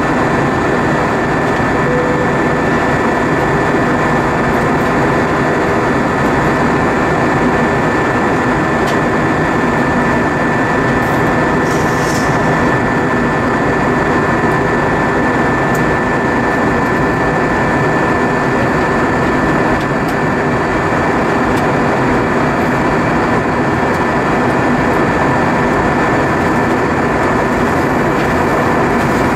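Steady cabin noise inside an Airbus A320-232 airliner: a continuous, even roar of engines and air with a few faint steady hums running through it.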